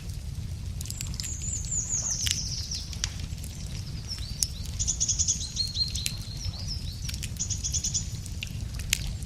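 Wood crackling and popping in a campfire, with scattered sharp cracks, while songbirds sing: a falling trill about a second in, then rapid high trills repeated through the middle and near the end, over a steady low rumble.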